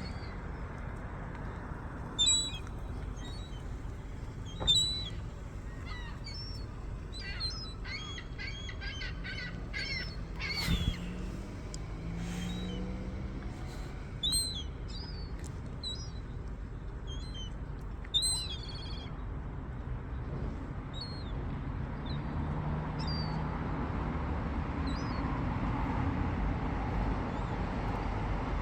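Gulls giving short, high calls now and then over steady background noise. A low hum builds up over the last several seconds.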